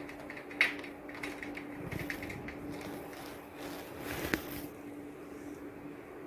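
Rain falling, with scattered sharp taps of individual drops, the loudest about half a second in and another just after four seconds. A faint steady hum runs underneath.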